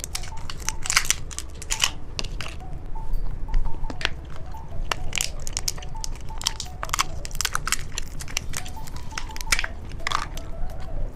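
Close-miked chewing of a green gummy eyeball candy: an irregular run of sharp, crisp clicks and crunches from the bites.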